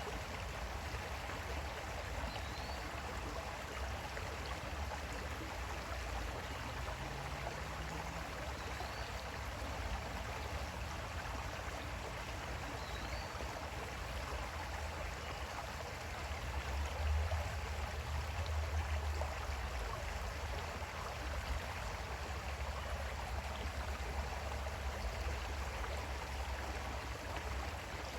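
Creek water flowing steadily, an even rushing babble. A deeper low rumble swells for a couple of seconds about two-thirds of the way through.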